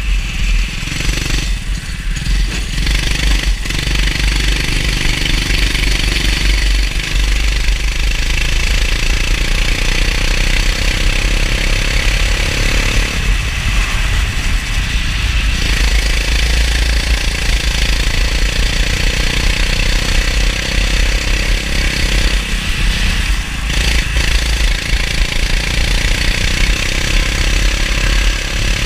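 Go-kart engine running hard with its revs climbing and dropping repeatedly through a lap, with brief dips in pitch where it slows for corners.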